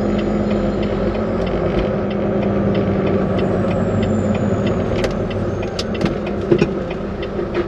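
Volvo VNL 860 semi truck running, heard from inside the cab: a steady engine drone with road noise, and a few light clicks around five and six seconds in.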